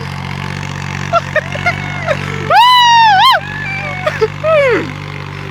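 Mini four-wheel-drive tractor engine running with a steady low hum, with loud high-pitched calls over it: short yelps about a second in, one long bending call about two and a half seconds in, and a falling call near the end.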